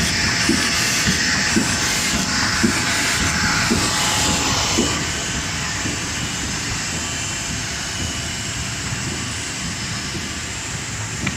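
YE102E high-speed paper embossing machine running, a steady mechanical noise with a regular low knock about once a second. About halfway through the knocks stop and the running sound becomes steadier and a little quieter.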